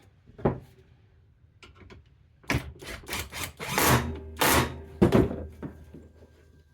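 Wood and tools being handled while a shelf is fitted: a single knock, then a quick run of knocks and clatter.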